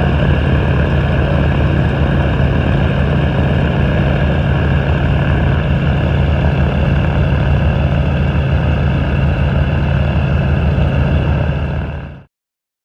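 UH-60 Black Hawk helicopters running, their twin turboshaft engines and rotors making a loud, steady drone with a low hum and a high turbine whine. The sound fades quickly and stops near the end.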